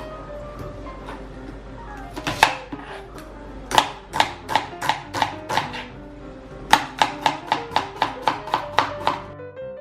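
Knife chopping on a cutting board in rhythmic runs of sharp strikes, a slower run of about six and then a faster run of about a dozen, over soft piano background music.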